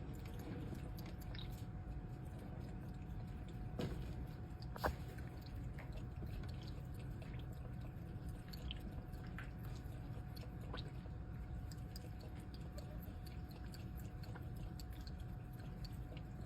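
Faint chewing, with scattered small clicks over a steady low hum; two louder clicks come about four and five seconds in.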